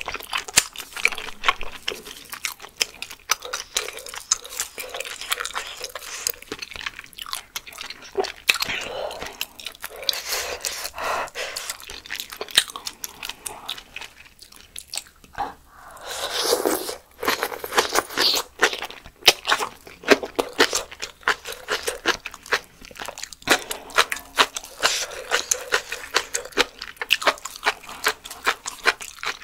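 Close-miked eating of spicy malatang with fresh coriander and vegetables: dense, irregular crunching and chewing, with one longer rushing sound about halfway through.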